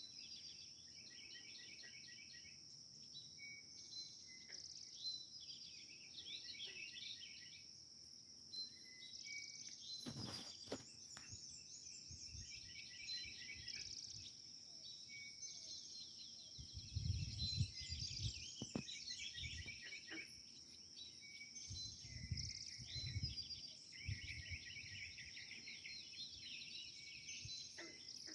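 Birds and a frog calling by a pond over a steady high-pitched buzz, with repeated chirping phrases throughout. Low rumbling comes twice in the second half.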